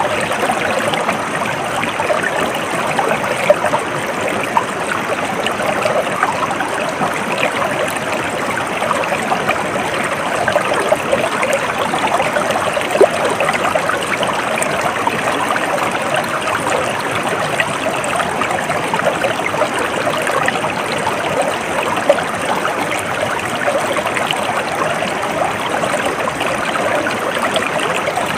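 A stream flowing steadily with a continuous babbling trickle, and a few brief louder splashes now and then.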